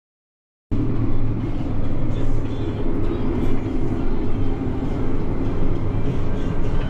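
Combine harvester running while cutting wheat: a loud, steady machine rumble that starts suddenly just under a second in and cuts off abruptly at the end.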